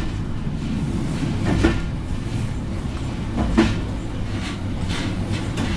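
A passenger train heard from inside its last coach, running with a steady low rumble. The wheels knock over rail joints twice, about two seconds apart.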